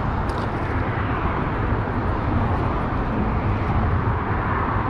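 Steady rumble of highway traffic, an even wash of road noise with no single vehicle standing out, and a faint click just after the start.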